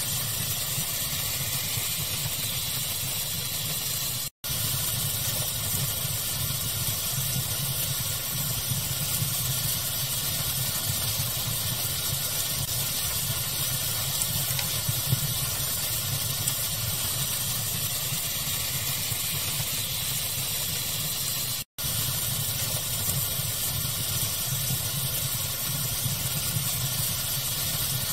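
Fire ambience mixed with pink noise: a steady even hiss over a low rumble, with small faint crackles. It cuts out for an instant twice, about four seconds in and again near the three-quarter mark.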